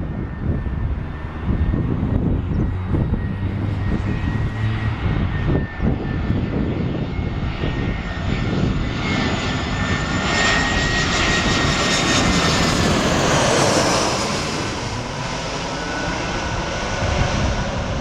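Airbus A319's CFM56 jet engines whining as the airliner passes on its landing approach, the noise swelling to its loudest about two-thirds of the way through and the whine falling slightly in pitch as it goes by. Wind rumbles on the microphone underneath.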